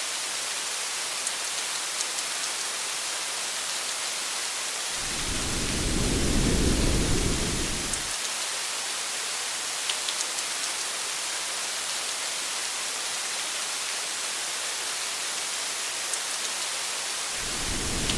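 Steady rain on a car with scattered sharp drop ticks. A low rumble of thunder swells in about five seconds in, lasts about three seconds, and a second rumble begins near the end.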